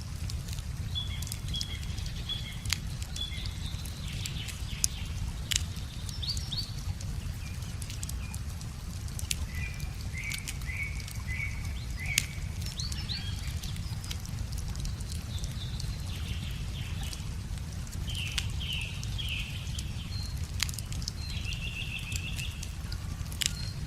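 Wood fire crackling with scattered sharp pops, over a steady low rush, while small birds sing repeated chirping phrases.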